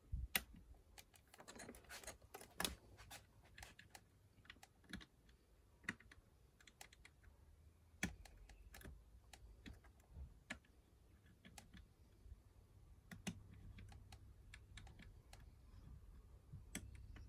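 Faint, irregular light clicks and taps of a lever-lock pick working the levers inside a 5-lever mortice lock, as each lever is lifted and tested.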